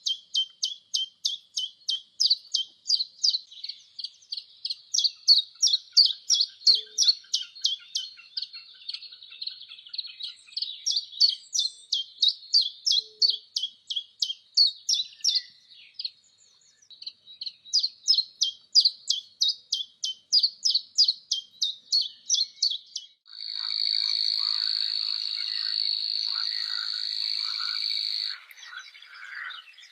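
A songbird calling a fast series of repeated high chirps, about three or four a second, with a brief pause partway through. About three-quarters of the way in, the chirps give way to a steady high buzzing trill for about five seconds, with rougher lower calls under it, before the chirping resumes.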